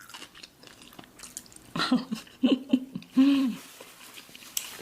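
Close-up mouth sounds of chewing a last mouthful of black bean noodles: soft wet clicks and smacks. Between about two and three and a half seconds in come a few short vocal sounds, such as hums or giggles.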